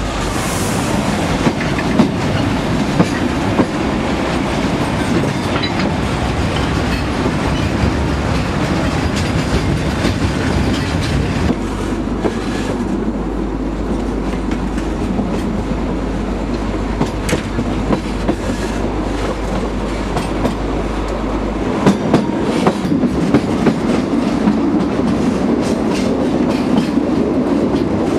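Narrow-gauge (760 mm) train running along the track with a steady running noise, its wheels clicking over the rail joints, the clicks coming more often near the end.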